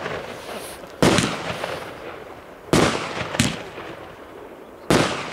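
Category 4 display fireworks going off with four sharp bangs, the third lighter than the rest, each dying away in a brief echo.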